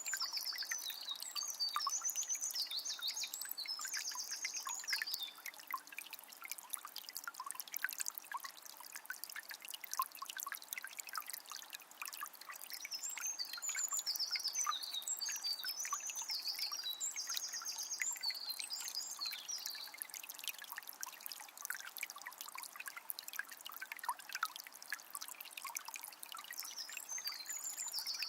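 A small spring trickling and splashing steadily. Over it a songbird sings long, fast, varied phrases three times: at the start, again about halfway through, and once more near the end.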